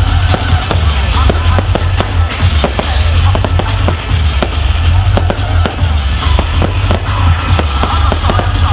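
Fireworks display: many sharp bangs and crackles in quick, irregular succession, several a second, with music playing underneath.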